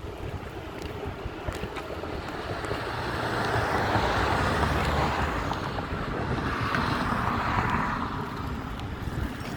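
Wind buffeting the microphone of a phone taped to a moving BMX bike, over tyre and road rumble. It swells louder from about three seconds in and eases off near the end.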